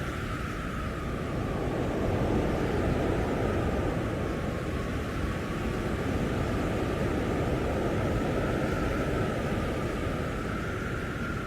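Blizzard wind blowing steadily, a dense rushing noise that swells a little about two seconds in and again later.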